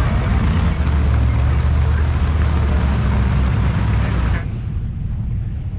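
Car engine running loud and steady under heavy rushing noise, then easing off to a lower, steady level about four seconds in.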